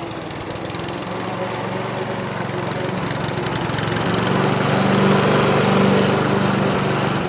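A small engine running steadily, growing a little louder partway through.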